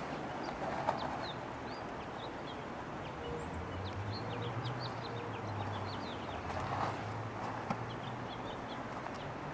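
Small songbirds chirping, many short high chirps through the whole stretch over a steady hiss. A low hum comes in about three and a half seconds in and fades out near seven seconds.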